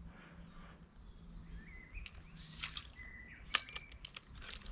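Quiet outdoor ambience with faint bird calls: a few short chirps and a brief held whistle near the middle. A single sharp click about three and a half seconds in, with small faint ticks and rustles around it.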